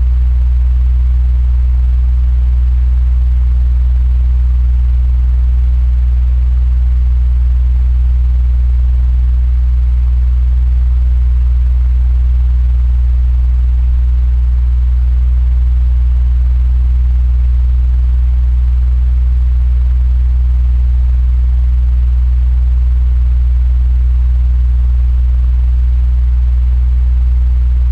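Electric fan running steadily: a strong low hum with an even rush of moving air.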